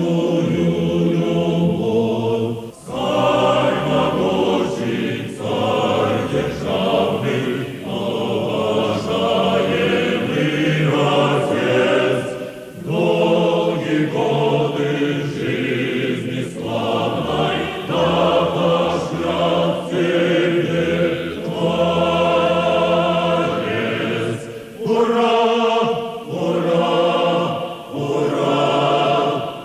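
Choir singing a chant-like hymn in long phrases separated by short pauses.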